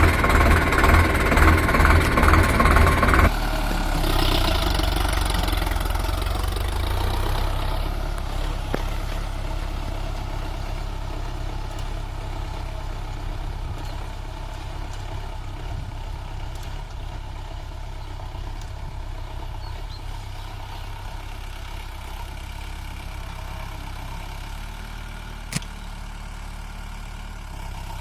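Sonalika 750 tractor's diesel engine running as it pulls a cultivator through the soil: a loud rhythmic throb for the first three seconds, then a steadier run that gradually fades. One sharp click near the end.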